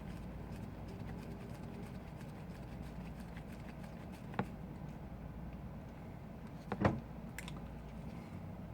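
Small clicks of a tool and tiny screws on phone parts during a repair: one sharp click about halfway through and a louder one about two thirds through, over a steady low hum.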